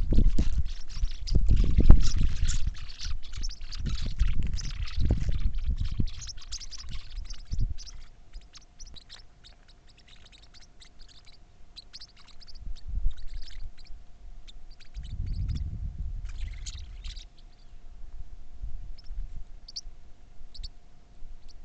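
Birds chirping in many short, quick calls, thickest in the first half, over loud bursts of low rumbling and a faint steady tone.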